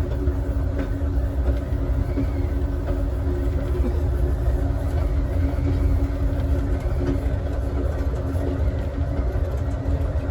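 Steady rumble of a moving Amtrak Southwest Chief passenger car rolling along the rails, heard from inside the last car, with a steady low hum running through it.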